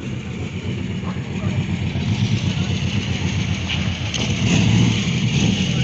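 A car engine running as the car pulls away and drives closer, getting steadily louder, loudest a little under five seconds in.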